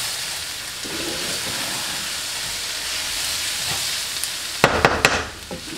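Sliced capsicum and onion sizzling steadily with spices in a non-stick sauté pan as a wooden spatula stirs them. About four and a half seconds in comes a quick run of knocks and scrapes, the loudest part, after which the sizzle eases a little.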